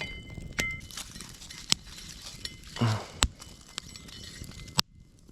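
Wood and coals being handled at a campfire: scattered sharp knocks and crackles as burning coals are shifted from one fire into the fire pit with sticks.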